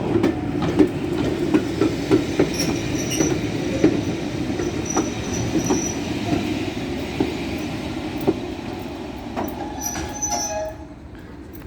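Train hauled by Class 37 diesel 37109 rolling slowly into the platform: a steady low rumble with wheels clicking over rail joints and a faint high squeal. About ten seconds in, the brakes squeal and the rumble falls away as the train comes to a stand.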